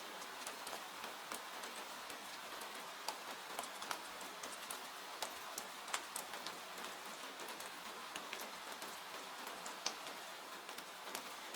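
Steady rain hiss with irregular sharp crackles and pops from a wood fire burning in a fireplace.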